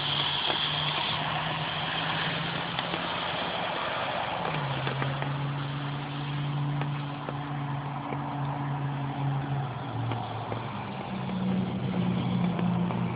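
Rain falling steadily, an even hiss with scattered drop ticks, over the low hum of a running motor-vehicle engine that changes pitch twice, about four and a half and ten seconds in.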